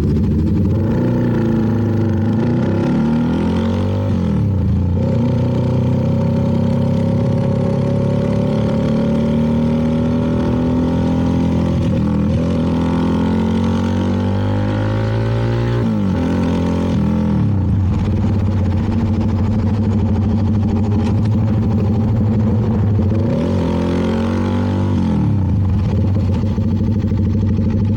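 CFMoto 300NK's single-cylinder engine running under way, its pitch swinging up and down several times as the revs rise and fall through gear changes, over a steady rush of wind and road noise.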